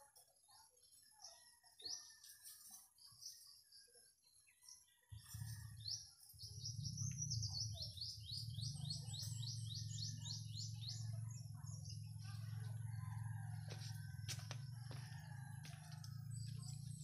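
Small birds chirping, with a quick run of repeated high chirps a few seconds in. About five seconds in, a steady low hum starts and runs on, louder than the birds, with a few light knocks near the end.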